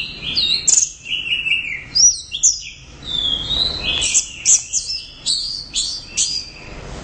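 Orange-headed thrush (anis merah) singing a fast, varied run of high whistled phrases, the notes sliding quickly up and down with barely a pause.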